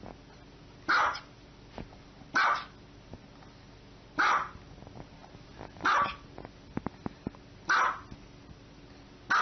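Small white Maltese-type dog barking: single sharp, high barks spaced about a second and a half to two seconds apart, six in all.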